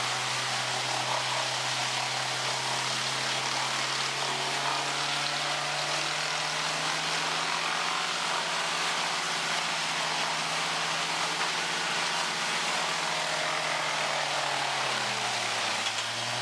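Heavy forestry machine's engine running steadily under a broad, dense hiss, its pitch dipping briefly near the end.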